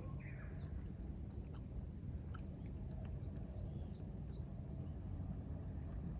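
Small birds chirping faintly, many short high calls scattered through, over a steady low background rumble.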